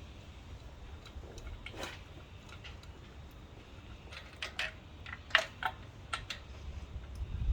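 A handful of light metallic clicks and clinks, like hand tools and parts being handled during an engine teardown, most of them between about four and six and a half seconds in, over a faint steady low hum.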